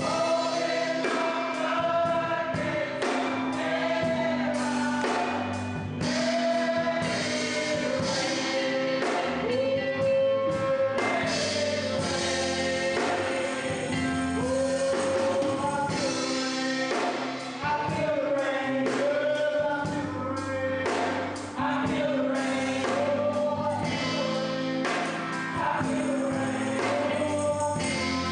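Gospel choir singing with live band accompaniment: sustained sung notes over a steady held chord and a regular beat.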